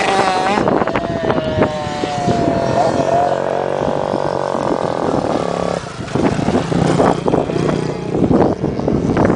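Dirt bike engine revving on a motocross track, its pitch sliding up and down as the rider works the throttle, fading out about four seconds in. After that, choppy, gusty noise takes over.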